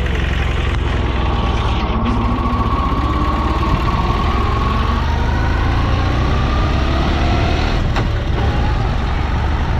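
1942 Zündapp KS 750 sidecar motorcycle's air-cooled flat-twin engine running steadily as the rig rides off, its pitch creeping up slightly. Two brief knocks, about two seconds in and near eight seconds.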